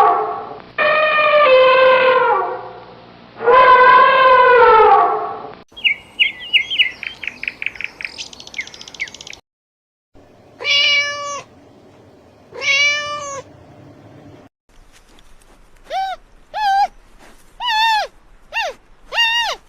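A string of separate animal calls in which cat meows dominate. There are long drawn-out calls in the first few seconds, then a stretch of fast high chirping, then two meows about two seconds apart, and a run of short, quick mews near the end.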